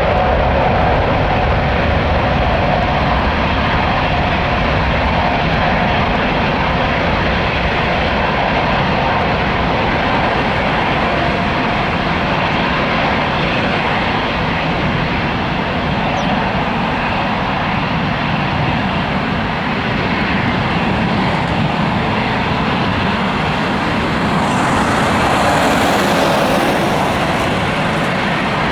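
Boeing 777-300ER's GE90-115B turbofan engines running with a loud, steady jet rumble. A faint whine fades out in the first few seconds, and the noise swells brighter about 25 seconds in.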